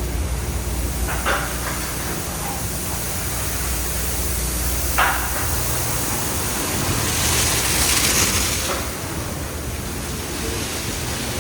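Tunnel car wash running: a steady rush of water spray and machinery, swelling into a louder hiss of spray about seven to nine seconds in. Two brief sharp clacks, about a second in and about five seconds in.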